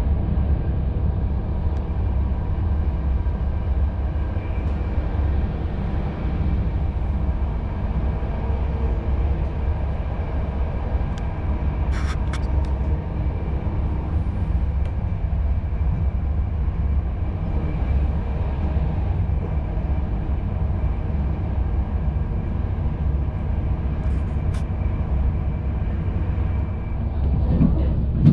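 Steady low rumble of a loco-hauled intercity passenger coach running fast on the rails, heard from inside, with a faint high whine over it and a couple of faint clicks.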